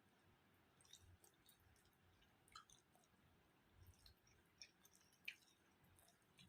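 Faint eating sounds: quiet chewing with scattered small wet clicks and squishes of curry and rice.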